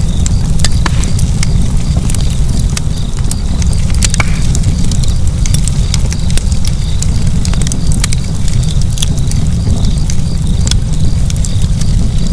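Fire burning in a fireplace: many sharp, irregular crackles and pops over a steady low roar.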